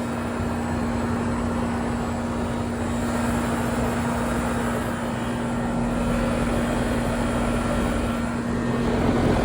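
Heat pump system running: a steady rush of fan air over a constant low hum.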